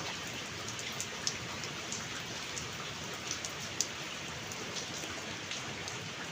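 Steady rain falling, an even hiss with scattered individual drops pattering and ticking close by.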